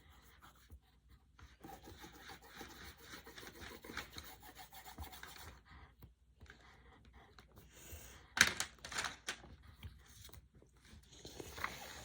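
Coloured pencil scribbling back and forth on paper, a scratchy rubbing that runs for a few seconds and then comes in shorter strokes. A sharper, louder scrape comes about eight seconds in.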